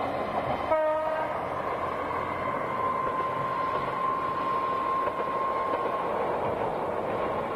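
A diesel railcar running past at a distance, with steady engine and rail noise, gives one short horn blast just under a second in.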